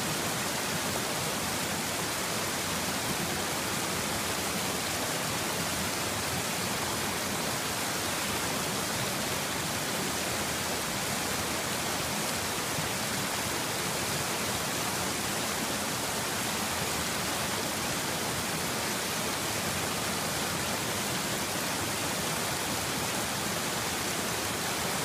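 Water rushing steadily over rocks in a spring-swollen stream, a constant, even hiss-like rush with no breaks.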